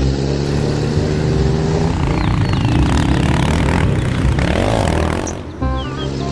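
A vehicle engine running steadily, which turns into a noisier rushing sound through the middle. Light music with stepped notes starts near the end.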